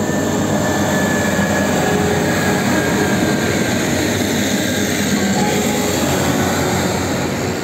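A train passing over a level crossing: a dense rumble of wheels on the rails that swells and then eases slightly near the end.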